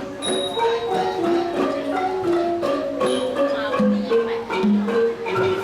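An ensemble of ranat ek, Thai wooden-keyed treble xylophones, played together in quick runs of struck notes that ring briefly.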